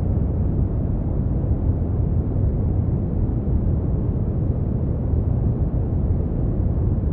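Brown noise: a steady, deep rumbling hiss, strongest in the bass, with no high end and no changes.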